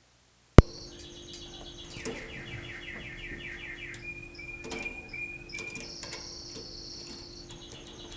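A sharp click about half a second in, the loudest sound. After it a domestic canary sings in rapid trills and quick runs of repeated high notes over a steady low hum.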